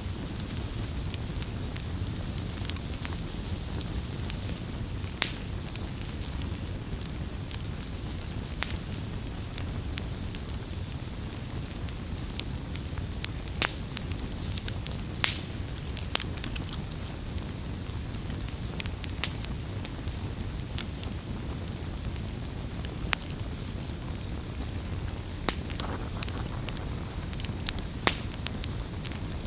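Wood campfire burning, with a steady low rumble and hiss under frequent irregular crackles and occasional sharper pops.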